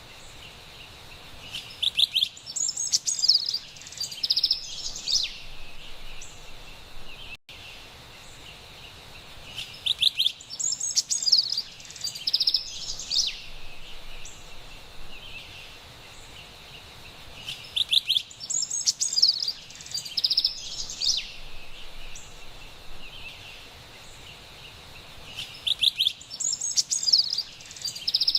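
Carolina wren singing: a loud burst of rapid, rolling high notes about three seconds long, repeated four times at even intervals of about eight seconds, over a steady high hiss.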